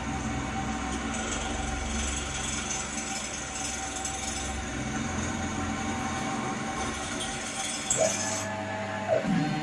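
Benchtop CNC mill drilling into T-slot extrusion: the spindle runs steadily while the drill bit cuts, with a hissy cutting sound for the first few seconds. Near the end the axis motors whine briefly, twice, as the head moves to the next hole.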